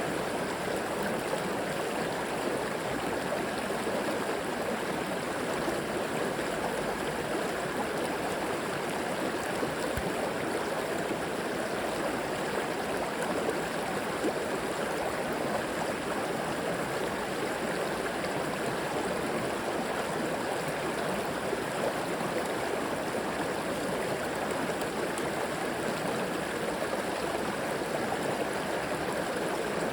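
River water flowing steadily over rocks, a constant rushing with light gurgling.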